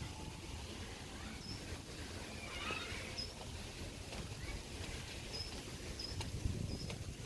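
Small birds chirping: short high chirps repeat every second or so, with a busier burst of calls about two and a half seconds in, over a steady low outdoor rumble.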